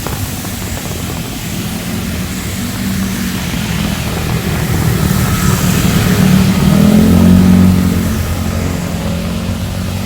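A motor vehicle drives past on a wet street in the rain. Its engine grows louder to a peak about seven seconds in, then fades, over a steady hiss of heavy rain.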